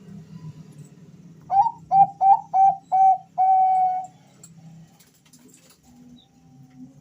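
Male zebra dove (Bangkok-bred perkutut) cooing: five short clipped notes starting about a second and a half in, then one longer held note.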